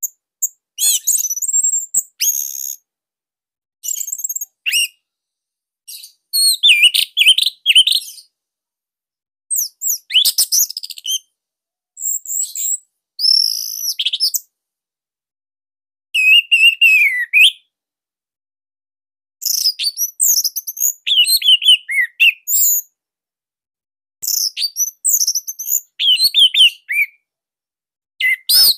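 Orange-headed thrush (anis merah) singing a series of varied song phrases, each a second or two long, of high whistled glides and rapid chattering trills, separated by short pauses.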